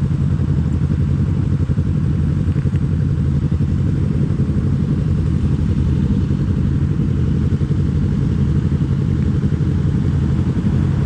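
Kawasaki Z250 motorcycle with an aftermarket SeaPro muffler, cruising at a steady throttle; the exhaust note holds an even pitch, with wind noise over it.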